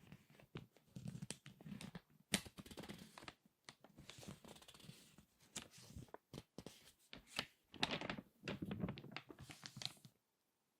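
Glossy magazine pages being turned and squeezed by hand: irregular paper crinkles and sharp crackles. A louder cluster of crinkling comes near the end and stops suddenly.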